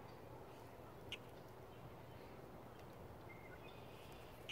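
Near silence outdoors: a faint steady low hum, with a single short bird chirp about a second in and a few faint bird notes near the end.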